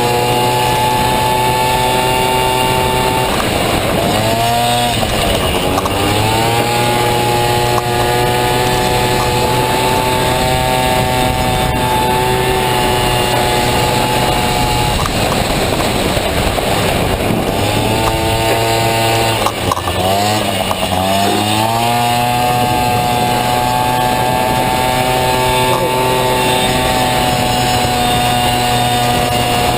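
Honda Dio two-stroke scooter engine in a Honda Motocompo running hard at steady high revs, dropping in pitch and climbing back twice, about three seconds in and again from about fifteen seconds, as the throttle is eased and reopened.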